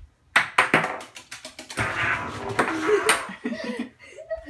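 Balls dropping and bouncing, a quick run of sharp knocks in the first second, then an eclectus parrot growling.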